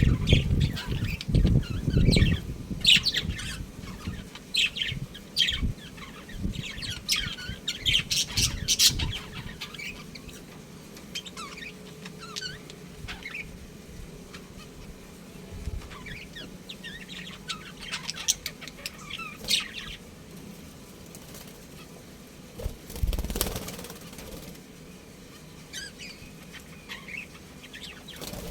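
Budgies chirping in quick, short calls, busiest in the first ten seconds and sparser after. Wings flutter with low thumps at the start and again about 23 seconds in.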